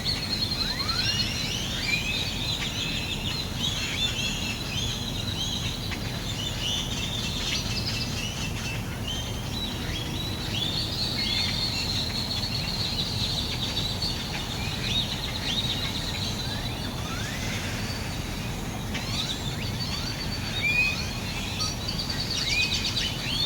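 A chorus of many birds calling and chirping at once, a dense tangle of quick sliding chirps and a steady high note, over a constant low city hum.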